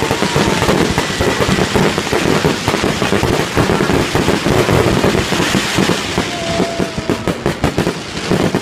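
Aerial fireworks display: a dense, rapid barrage of bangs and crackling pops as many shells burst in quick succession.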